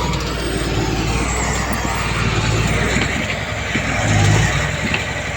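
Diesel engine of heavy earthmoving machinery running under load, its pitch shifting up and down, louder briefly about four seconds in.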